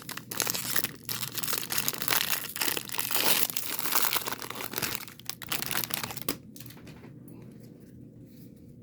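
Foil wrapper of a Bowman Draft baseball card pack being torn open and crinkled, a run of dense crackling and tearing that dies away about six seconds in.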